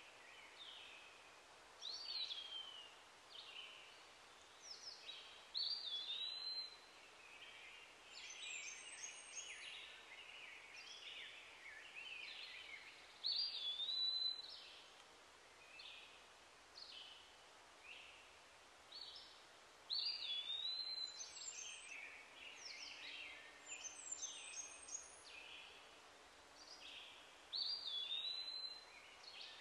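Birds chirping and whistling, with a downward-swooping whistle that comes back every several seconds, over a steady background hiss.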